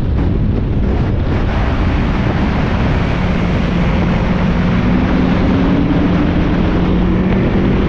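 Onboard sound of a Spec Miata race car at speed: heavy wind noise on the microphone over the four-cylinder engine, whose note climbs slowly through the second half as the car accelerates.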